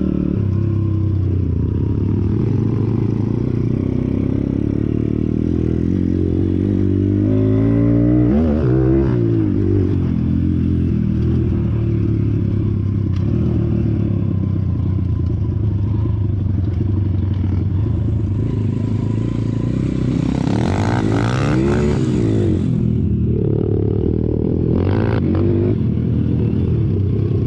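Pit bike's small single-cylinder engine running steadily. The revs rise and fall about eight seconds in and again around twenty seconds in, the second time with a rushing hiss.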